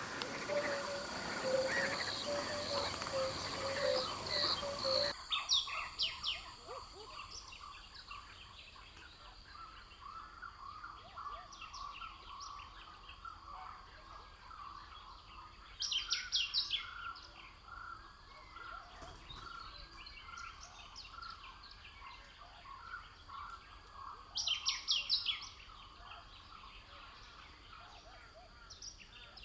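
Outdoor birdsong from several birds: a bed of short repeated calls, with a loud burst of rapid high notes twice, about halfway through and again near the end. The first few seconds belong to a denser, louder passage that cuts off suddenly.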